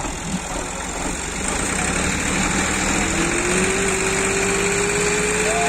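Vehicle engine idling steadily, with a long held tone joining in about three seconds in.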